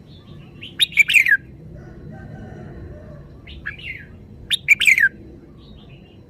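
Red-whiskered bulbul singing: two loud, quick phrases of sliding notes, about four seconds apart, with a few softer notes between them.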